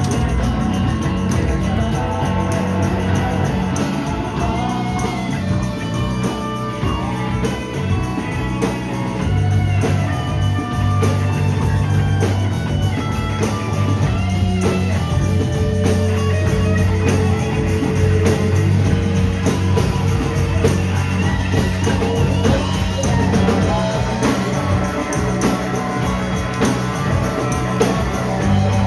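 Rock band playing live: electric guitar, bass and drum kit, with the bass holding long notes.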